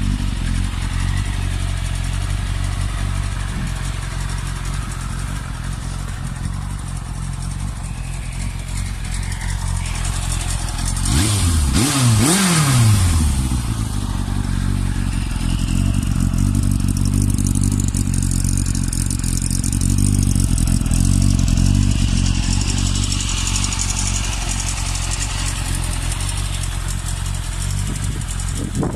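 Yamaha YZF1000R Thunderace's inline-four engine idling steadily through a straight-through silencer. About eleven seconds in it is revved briefly, the pitch climbing and falling back to idle within about two seconds.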